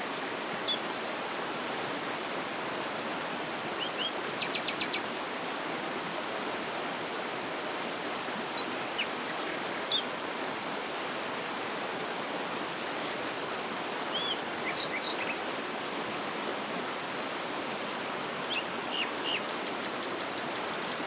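Waterfall rushing steadily, with songbirds chirping and trilling over it in short bursts every few seconds.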